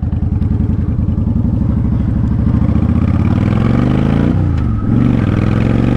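Honda Shadow Spirit 750's V-twin engine pulling away and accelerating: the pitch climbs for about three seconds, falls sharply once about four seconds in, as at a gear change, then rises again.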